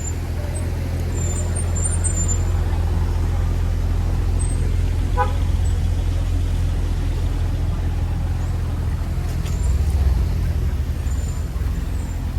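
A car engine running close by: a steady, deep low rumble that swells a little about ten seconds in.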